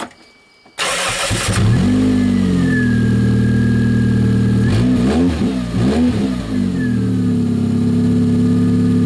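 Toyota Tercel's four-cylinder engine, running on gear oil in place of motor oil, cranks and starts about a second in, settles to a raised idle, is revved briefly twice about five seconds in, then idles steadily.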